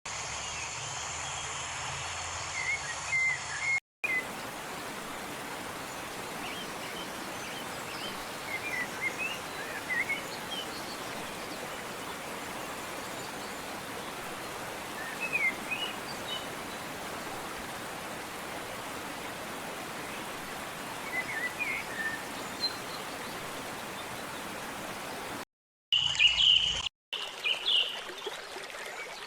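A stream of running water as a steady rush, with small birds chirping now and then. The sound cuts out briefly about four seconds in and twice near the end, and the birds are loudest just before the end.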